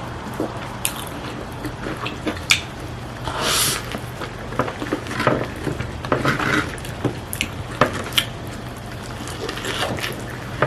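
Close-miked eating sounds: cutlery clicking against dishes, with short wet, squishy bursts of chewing and slurping food, over a steady low hum.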